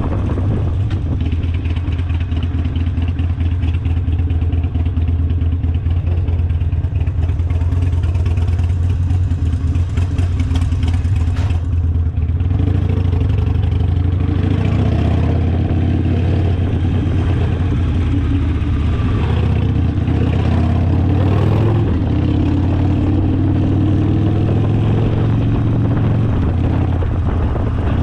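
Harley-Davidson Sportster V-twin engine running through a TBR 2-into-1 aftermarket exhaust, with a steady, loud, deep exhaust note, as while the bike is ridden.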